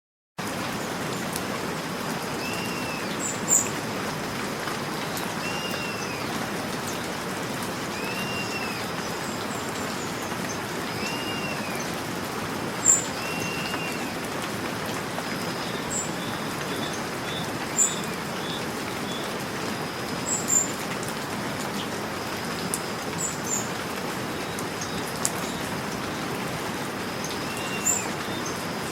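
Steady rain with birds calling over it: one bird repeats a short call that rises and falls, every two to three seconds, and sharp high chirps stand out now and then.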